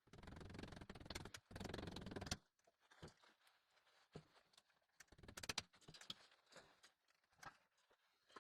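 Handling noises from installation work: about two seconds of scraping and rustling, then scattered light clicks and knocks.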